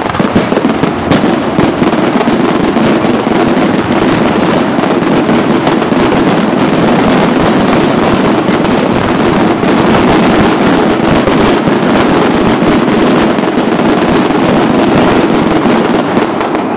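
A dense barrage of firework explosions, the bangs and crackles so rapid that they merge into one loud continuous rumble, which stops abruptly near the end.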